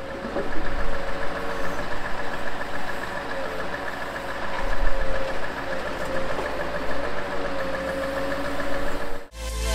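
Scania 6x6 timber truck's diesel engine running steadily, with a wavering whine over it. It cuts off suddenly near the end and electronic music with a heavy beat comes in.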